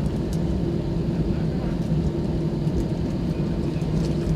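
Steady drone of an Airbus A320's jet engines with a constant low hum, heard inside the cabin.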